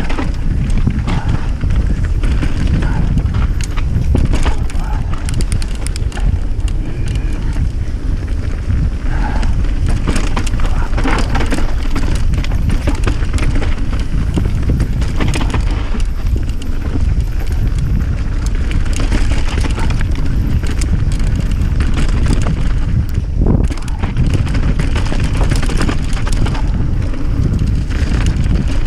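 A loud, steady low rumble with many scattered clicks and rattles over it.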